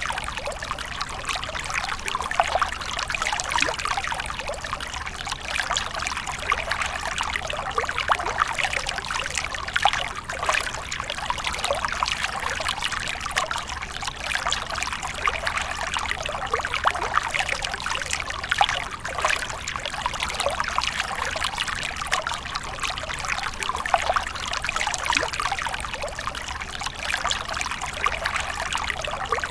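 Water splashing and trickling without a break, a dense patter of small splashes.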